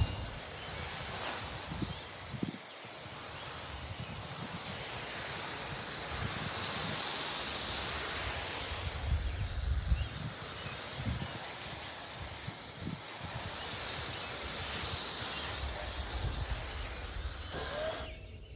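Steady spray hissing as sawdust is sprayed off the freshly sawn face of a claro walnut log, swelling and easing as the spray moves, then stopping abruptly near the end.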